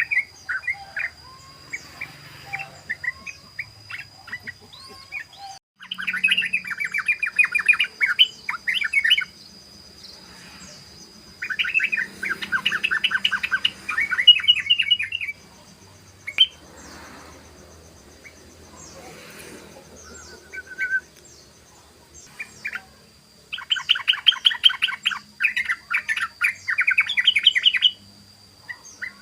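Yellow-vented bulbul (trucukan) singing in long bursts of rapid chattering notes, the fast run called 'ropel', three bursts with scattered single notes between. A faint steady high whine runs underneath.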